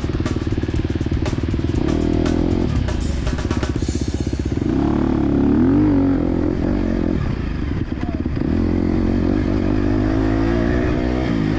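Motocross bike engine running and revving, its pitch rising and falling, with music mixed in during the first few seconds.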